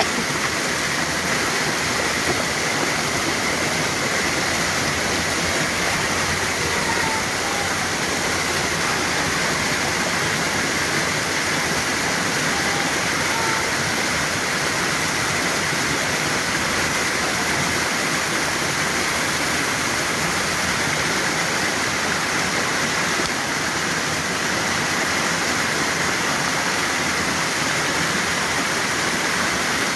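Floodwater rushing steadily through a swollen creek during a flash flood.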